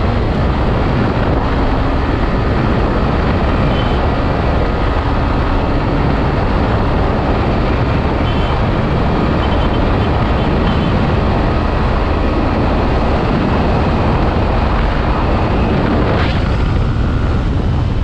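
Hero Xtreme 160R single-cylinder motorcycle ridden flat out at high speed: a steady, loud rush of engine and air noise that holds unchanged.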